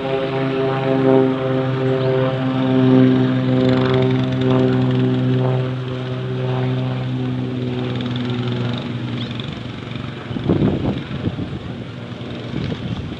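Propeller airplane engine droning steadily, then fading away after about nine seconds. Irregular gusty noise follows near the end.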